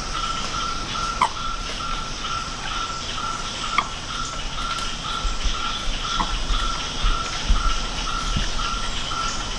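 Rainforest chorus of clicking frogs and insects after rain: a steady pulsing high note with a hiss of calls above it, and three sharper, louder clicks spread through.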